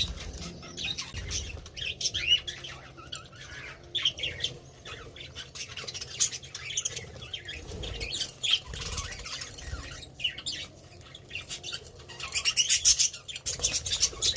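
A colony of budgerigars chattering, with many short chirps and squawks and scattered clicks. The calls grow denser and louder near the end.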